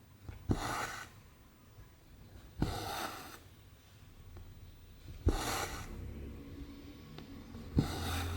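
Cross-stitch needle and cotton thread drawn through 14-count canvas, four stitches about two and a half seconds apart: each a sharp tick as the needle pops through, then a short rasp as the thread is pulled tight.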